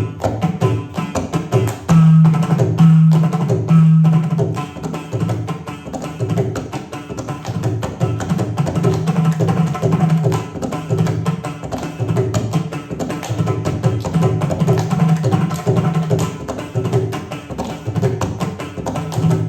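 Carnatic classical percussion: tuned hand drums playing a dense, fast rhythm with a strong low ringing pitch.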